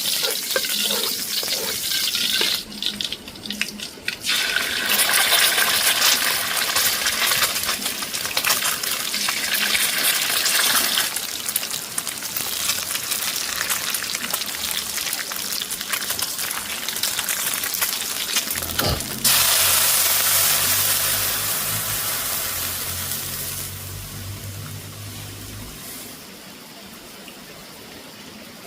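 Water running and splashing. A low hum joins it about two-thirds of the way in, and the water sound fades near the end.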